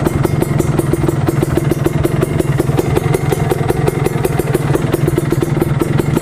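Kawasaki Ninja 150 R's two-stroke single-cylinder engine running steadily with an even, fast pulse.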